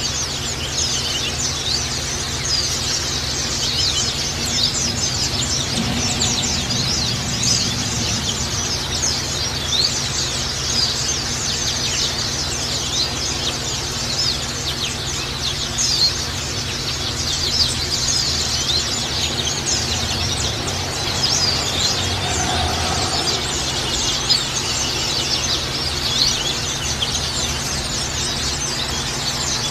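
A flock of white-eyes (Zosterops, 'pleci') calling together: a dense, continuous chatter of many short, high chirps overlapping. A steady low hum runs underneath.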